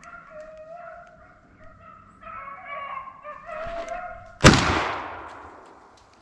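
Deer hounds baying on a running deer, then a single loud gunshot about four and a half seconds in, its echo fading over a second or more.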